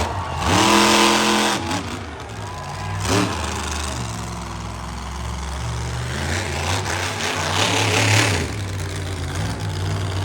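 Monster truck engine revving in several loud bursts that rise and fall, the biggest about a second in, over a steady low running hum between revs.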